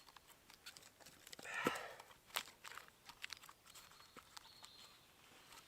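Faint knocks and clicks of pine wood being handled for a fire, with one short scraping stroke about one and a half seconds in.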